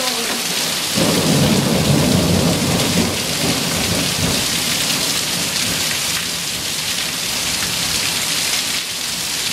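Heavy rain pouring steadily, with a low rumble that swells about a second in and fades over the next few seconds.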